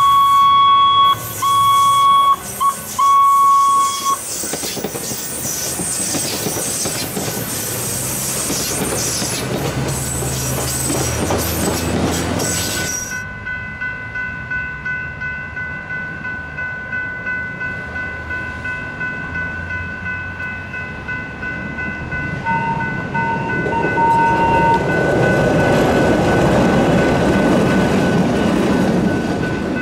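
CTA Holiday Train rapid-transit train sounding its horn in four short blasts, then running past with rumble and clatter on the rails. A grade-crossing bell then dings steadily, about one and a half times a second. Near the end a second CTA train gives a few short horn beeps and passes over the crossing.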